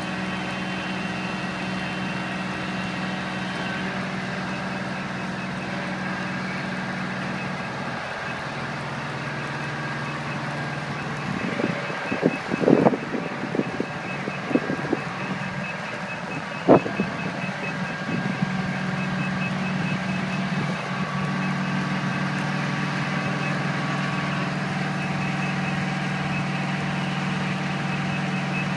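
Fire truck's Detroit Diesel Series 92 engine running steadily, with a rapid, high-pitched beeping alarm repeating over it. Several sharp knocks or clanks come about halfway through.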